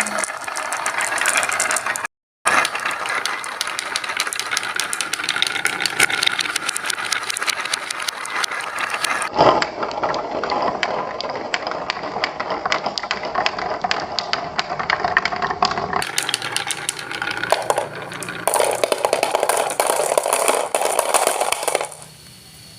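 Marbles rolling and clattering down a marble run track: a dense stream of rapid clicks and rattles, cut off and resumed abruptly several times.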